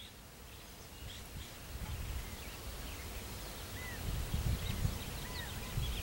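Faint, distant small birds calling: scattered chirps and short arching calls, more of them in the second half, over a low uneven rumble.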